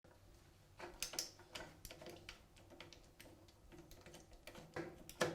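Irregular light metal clicks and taps from a screwdriver working on a tap head, with a sharper knock near the end.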